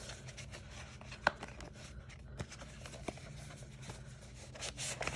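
Hands handling and unwrapping packaging: scattered light taps and clicks, with a short burst of rustling near the end.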